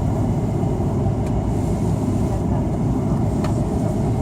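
Airbus A330-300 cabin noise: a steady, dense rumble of the engines and airflow heard from inside the cabin, with a couple of faint ticks.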